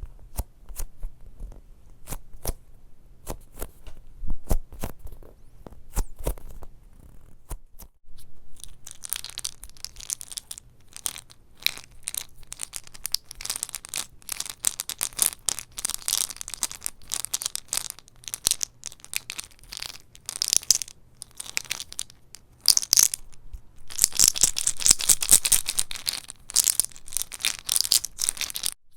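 Close-miked ASMR crackling: scattered sharp clicks and taps for the first several seconds, then a dense, crisp crackling and crunching with a brief pause about two-thirds of the way through.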